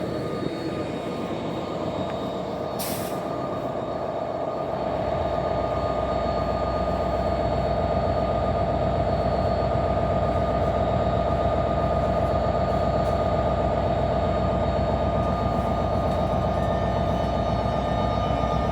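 NJ Transit passenger train running past close by: a continuous rumble of wheels on rail with a steady whine, growing louder about five seconds in and then holding. There is one short sharp click about three seconds in.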